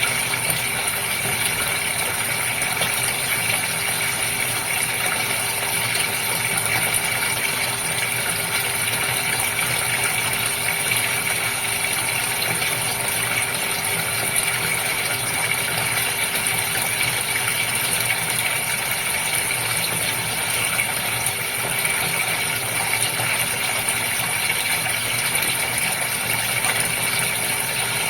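Goldfish tank water running and splashing steadily, with a steady mechanical hum underneath.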